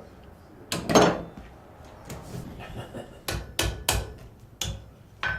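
Blacksmith's hammer striking metal on an anvil: two blows about a second in, then a run of about six ringing strikes from about three seconds in.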